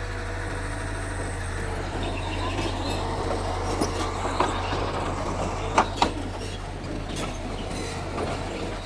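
Bulldozer engine running steadily, with a few sharp metallic clanks, two of them close together about six seconds in, typical of the crawler's steel tracks and blade.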